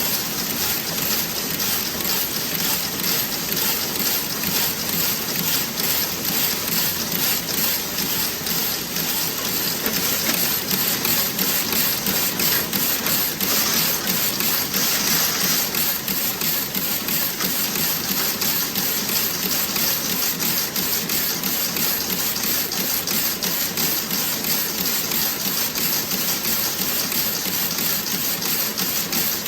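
Toe-sock knitting machine running: a fast, even mechanical clatter over a steady hiss. It grows a little louder for a few seconds about halfway through.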